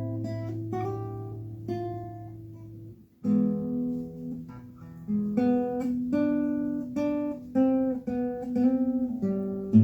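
Acoustic guitar played alone as the song's introduction, picked notes over a ringing bass note; it breaks off briefly about three seconds in, then resumes.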